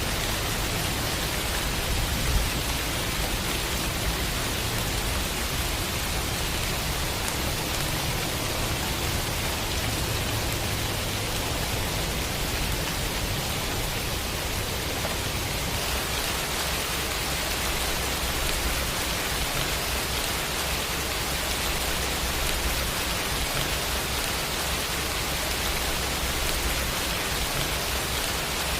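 Steady rain sound effect: continuous, even hiss of falling rain.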